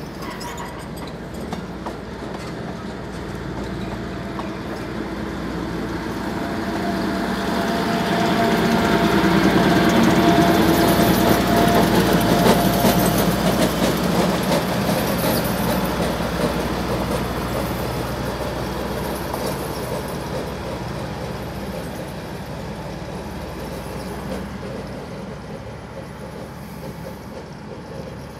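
Narrow-gauge train of the Durango and Silverton rolling slowly past on the rails, the cars rumbling by. The diesel switching locomotive's engine grows louder, is loudest about ten to thirteen seconds in as it passes, then fades as it moves away.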